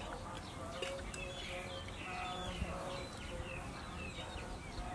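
Birds chirping: a string of short, falling chirps, over a low steady background rumble.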